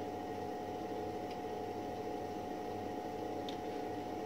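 Steady background hum with a constant mid-pitched tone, and two faint light clicks, about a second in and near the end.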